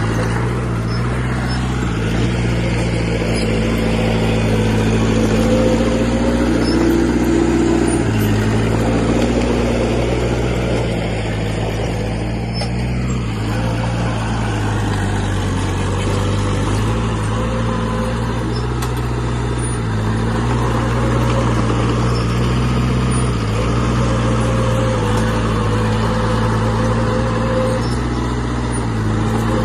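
Diesel engine of heavy earthmoving machinery running under load, its pitch shifting up and down several times as the engine speed changes.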